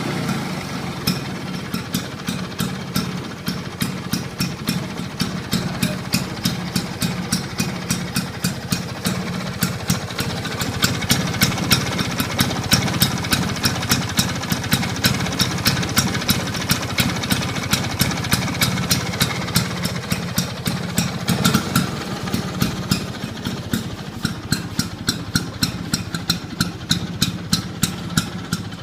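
1967 Vespa Super VBC's single-cylinder two-stroke engine idling, with sharp regular pops from the exhaust, picking up briefly about two-thirds of the way through before settling again.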